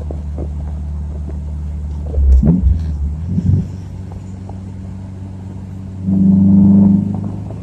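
Honda B16A2 1.6-litre four-cylinder VTEC engine with ITR cams, heard from inside the car on a second-gear pull. It runs at a steady drone, then several loud low thumps come about two to three and a half seconds in. Near the end the engine gets loudest and fullest for about a second as it is pushed harder.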